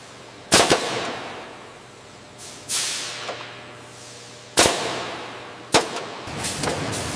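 Sharp bangs, a quick pair about half a second in and two more near five and six seconds, each trailing off in a fading hiss, with a softer hissing swell in between.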